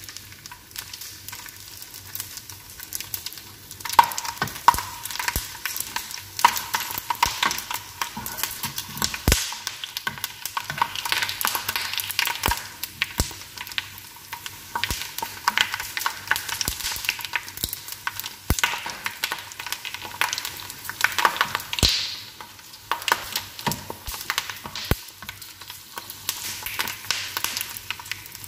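Food sizzling in hot oil in a frying pan, with many small pops and an occasional knock of metal tongs against the pan as the pieces are turned. The sizzle grows louder about four seconds in.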